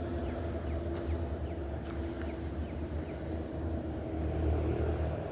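Steady low mechanical rumble with a faint hum, swelling slightly about four seconds in.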